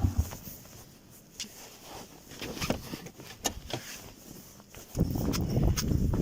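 Quad bike (ATV) engine switched off, its steady running cutting off at once. Scattered small clicks and rustles follow, then a low rumble of wind on the microphone from about five seconds in.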